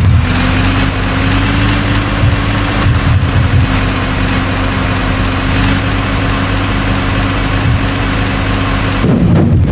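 Diesel engine of heavy earth-moving or haulage machinery idling steadily, with a brief change in its sound near the end.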